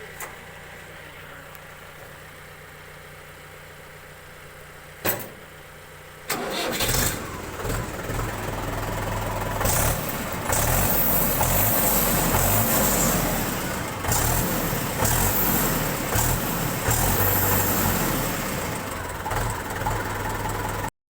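Mahindra 575 DI tractor's diesel engine running. For about six seconds it idles quietly and steadily. Then it becomes much louder and rougher, and this continues until the sound cuts off abruptly near the end.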